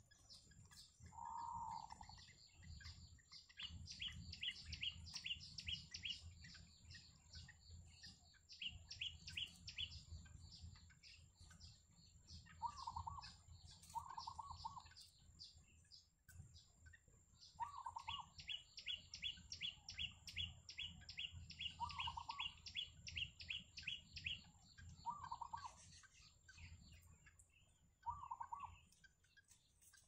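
Birds calling in a reedbed: runs of fast, high repeated chirps lasting a few seconds each, with short lower calls every few seconds. A thin steady high tone runs underneath.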